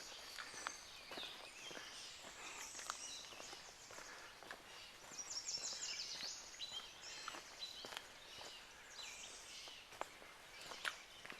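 Several songbirds singing, overlapping high chirps and quick trills, with a hiker's footsteps and scattered sharp clicks on the trail.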